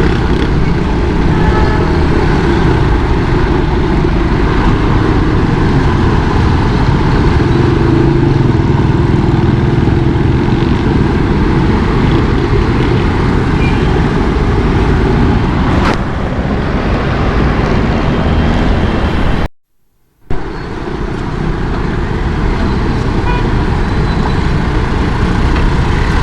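Motorcycle riding through city traffic: steady engine and road noise with car horns sounding among the traffic. The sound drops out for under a second about 20 seconds in.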